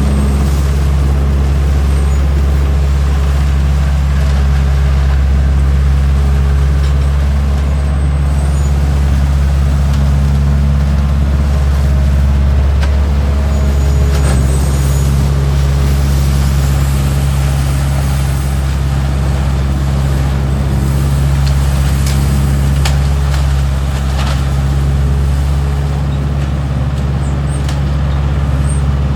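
Leaf collection truck's engine running steadily at a constant speed, a low even hum throughout, with a few faint clicks and rattles over it.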